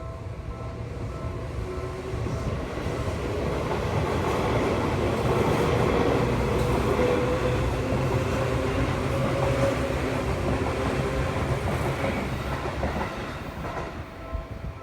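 An electric train passing over a level crossing, growing louder to a peak in the middle and easing off near the end. The crossing bell's repeating ding is heard at the start and again near the end, drowned out while the train goes by.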